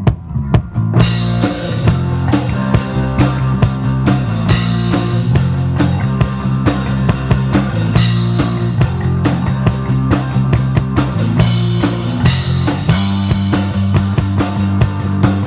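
Live rock band playing an instrumental passage: drum kit, bass and electric guitar. The full band comes in about a second in and keeps a steady beat with a heavy bass line.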